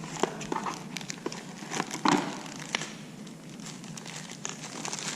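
Plastic packaging crinkling and rustling in hand, with scattered light clicks and a louder rustle about two seconds in.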